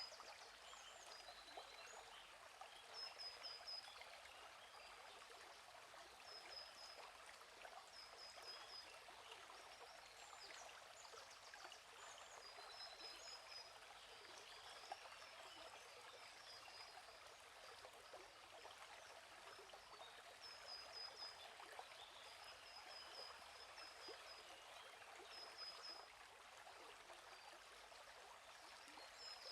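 Faint steady flow of a small stream, with a bird repeating short, quick high-pitched chirping phrases every few seconds.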